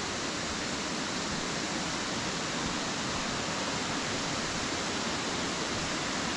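Waterfall pouring into a river pool, a steady rushing of fast-running water.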